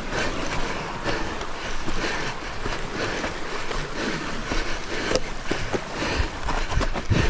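Wind buffeting the microphone over the wash of sea surf, with irregular gusts and knocks.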